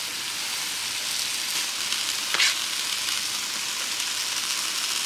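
Sliced potatoes, onions, bell peppers and carrots sizzling steadily on an electric griddle at 450°F, with one brief scrape of the spatula on the griddle surface about two and a half seconds in.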